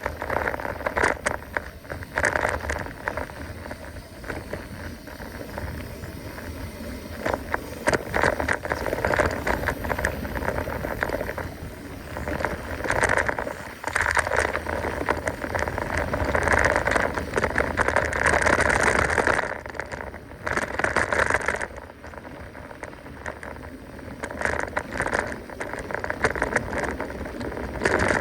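Mountain bike being ridden along a dirt trail: continuous rolling noise and dense clicking and rattling from the bike as it goes over the rough ground, louder in stretches.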